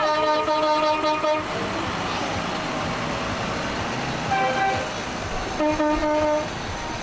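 Vehicle horns tooting three times: a long blast ending about a second and a half in, a short toot a little past the middle, and a blast of just under a second near the end, over the steady sound of running engines.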